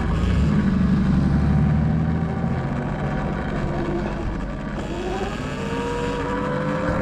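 Vehicle noise while riding: a low engine rumble with wind noise, then over the last couple of seconds the electric dirt bike's motor whine rising in pitch as it speeds up.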